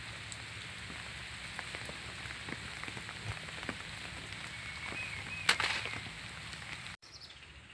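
Rain falling steadily on leaves, with individual drops ticking close by and one sharper tap about five and a half seconds in. The rain noise drops away abruptly about seven seconds in.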